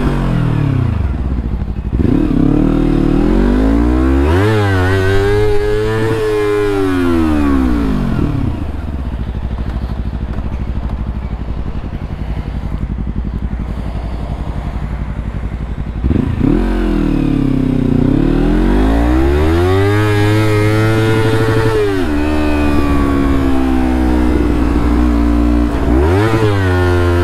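Motorcycle engine accelerating hard, its revs climbing and then falling away as the throttle closes, twice over. In between it runs lower and steadier under a rushing noise, and near the end it climbs briefly again.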